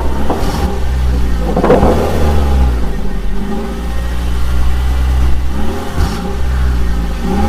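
Vehicle engine running steadily, its pitch dipping and rising again a few times as it revs.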